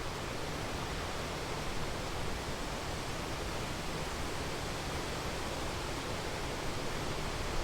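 Rhine Falls' large waterfall, a steady, even rush of falling water with no breaks.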